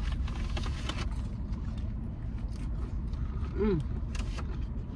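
Close-up chewing and crunching of fried chicken wings, over a steady low rumble from the car. A short hummed 'mm' of enjoyment a little over three and a half seconds in.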